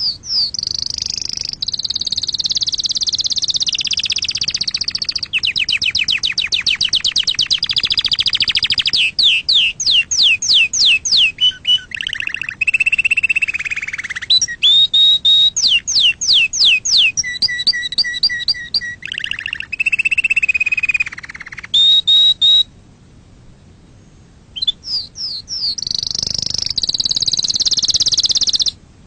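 Domestic canary singing a long song of rapid rolling trills, fast runs of repeated sweeping notes and held whistles, with a pause of about two seconds about three-quarters of the way through before it starts again.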